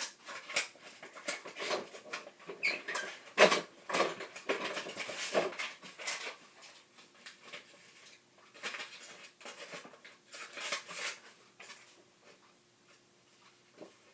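Irregular scratching, rustling and sharp clicking of paper craft materials being handled and cut, busiest in the first half and thinning to a few faint ticks near the end.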